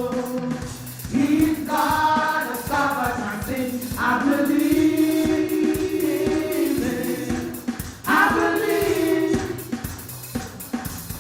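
Gospel worship singing: voices hold long notes over a band playing a steady beat.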